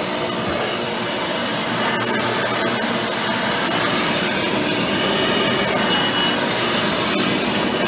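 Hoover Power Drive Supreme vacuum cleaner running steadily, its motor fitted with an upgraded 20-blade impeller fan; a faint thin whistle comes in briefly about halfway through.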